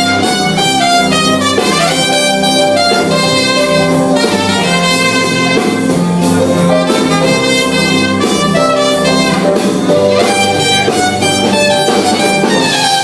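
Live band playing an instrumental break in an upbeat rock-and-roll song: a melodic lead line over drums and bass, with no vocals.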